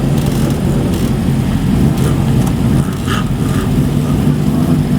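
Motorcycle engines running at low revs with a steady exhaust note as bikes ride slowly in.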